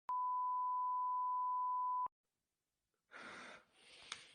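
A steady 1 kHz beep lasting about two seconds that stops abruptly, with the audio otherwise muted to dead silence: an edited-in censor bleep covering swearing.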